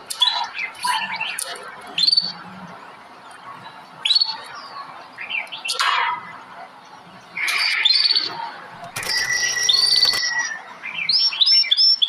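Several birds calling: scattered short rising chirps and whistles, a harsher, rasping call lasting about a second about nine seconds in, and a quick run of repeated chirps near the end.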